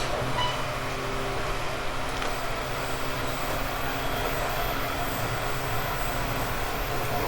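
Running sound inside a JR East 189 series electric multiple unit motor car: the MT54 traction motors hum and the wheels run on the rails at a steady pitch, with an occasional faint click.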